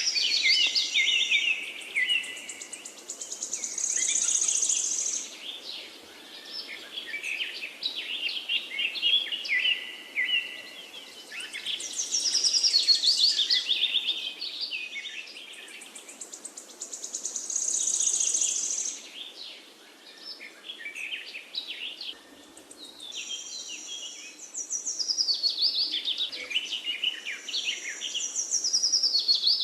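Songbirds singing: long, varied phrases of rapid trills and quick chirping notes, one phrase after another every few seconds, over a faint steady background hiss.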